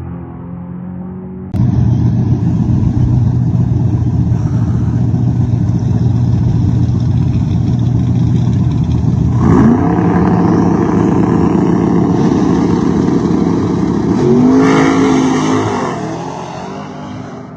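A car engine running hard at high revs, loud and steady, coming in suddenly about a second and a half in. Its note rises twice, about ten and fifteen seconds in, then fades away near the end.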